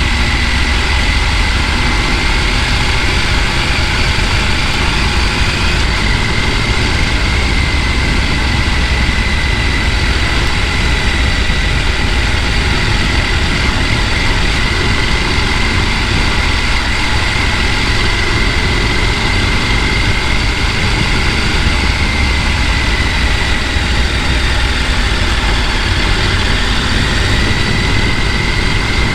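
Mountain stream rushing over rapids: a loud, steady wash of water noise with a deep rumble underneath. A thin, high, slightly wavering tone runs over it.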